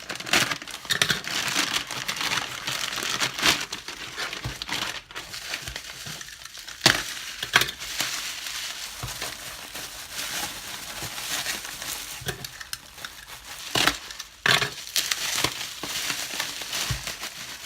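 Parcel packaging being torn open and handled, with plastic and paper crinkling and crackling and sharp snaps now and then.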